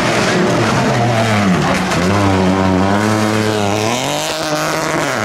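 Rally car engine running at high revs. Its pitch drops about a second and a half in, climbs back and holds, drops again around four seconds in, then rises once more near the end.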